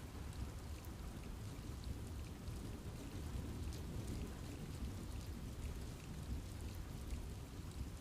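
Steady rain falling in a forest, with scattered drops ticking and a constant low rumble beneath.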